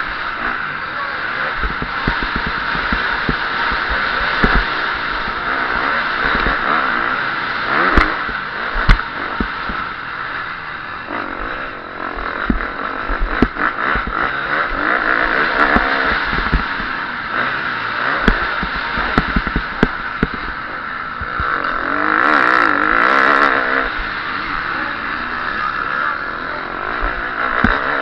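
KTM SX-F 350 single-cylinder four-stroke motocross engine racing: the throttle opens and closes repeatedly, so the engine note rises and falls, with a wavering rev around two-thirds of the way through. Sharp knocks and clatter come through at times, the loudest about 8 and 9 seconds in.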